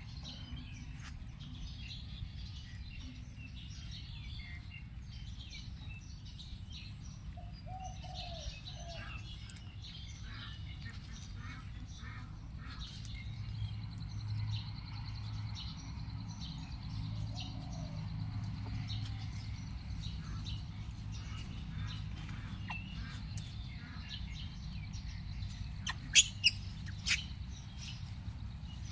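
Birds chirping and tweeting in short scattered calls over a steady low hum, with a few sharp clicks near the end.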